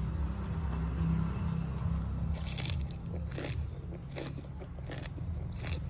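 Crunchy chewing of shredded raw green papaya salad, about five loud crisp crunches coming at a steady pace from about two seconds in. A steady low rumble runs underneath.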